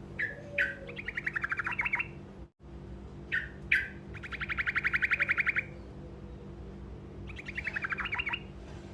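Truco songbird singing its short rolling song: a couple of sharp chips, then a fast trill lasting about a second, given three times. A low steady hum runs underneath.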